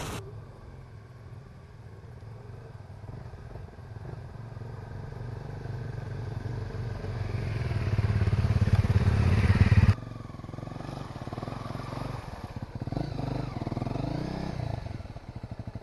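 Motorcycle engine running, getting steadily louder for about ten seconds until it cuts off suddenly, then running more quietly with a few rises and falls in pitch near the end.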